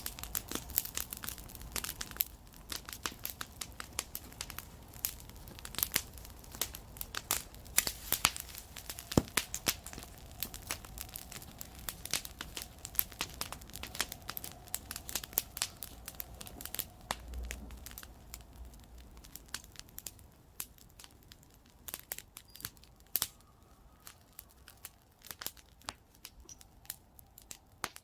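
Wood campfire crackling: irregular sharp snaps and pops over a soft hiss, growing sparser in the last third.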